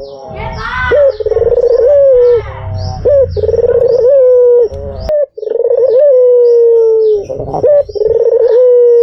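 White ringneck (Barbary) dove cooing: a string of long, loud coos, each opening with a short upward flick and then holding a slowly falling note, one after another with brief breaks.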